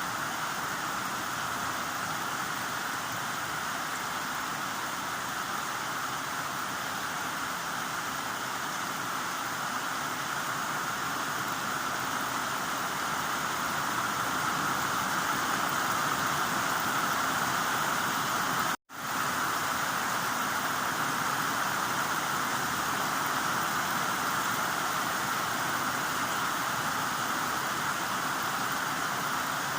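Heavy rain falling in a steady, even hiss with no separate drops standing out. It cuts out completely for an instant about two-thirds of the way through, then resumes unchanged.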